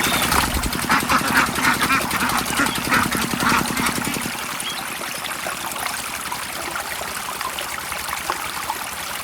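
Miniature engine-driven water pump running with a fast, even ticking, which stops about four seconds in. Water keeps trickling and pouring after the engine stops.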